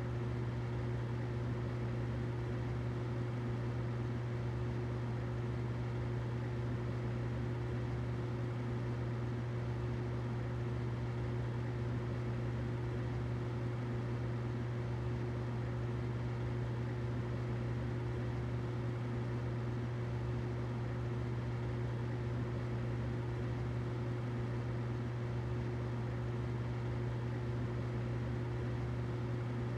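Humidifier running: a steady low hum with a fainter higher tone over a soft, even hiss.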